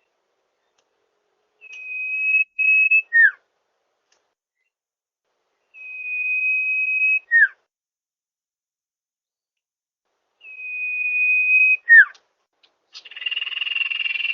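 Common iora (cipoh) calling: a long, steady whistle followed by a short down-slurred note, three times, about four seconds apart. A harsher, buzzier call begins near the end.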